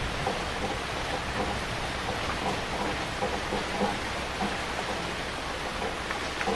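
Heavy rain falling steadily, a dense even hiss with small drops pattering on a surface.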